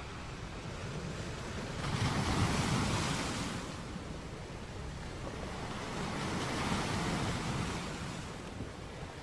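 Sea waves washing in on the shore: a steady rush of surf that swells twice, a few seconds apart, as waves break.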